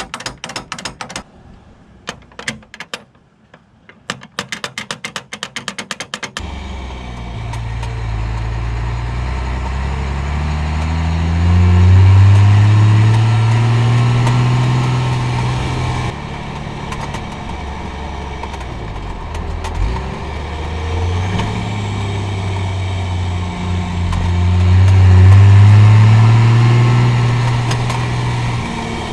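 Metal tailgate straps rattling against the truck bed in quick runs of clicks: the rattle of straps with no lower tailgate bumpers fitted. About six seconds in comes the first-gen Cummins 5.9 L inline-six diesel running as the truck drives, its pitch rising twice as it accelerates.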